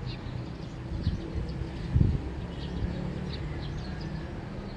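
Early-morning neighbourhood ambience: a steady low vehicle engine hum, swelling louder about two seconds in, with small birds giving short high chirps over it.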